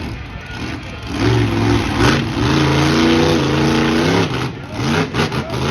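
Monster truck engine revving, held at high revs for about three seconds before dropping away, with a sharp bang about two seconds in.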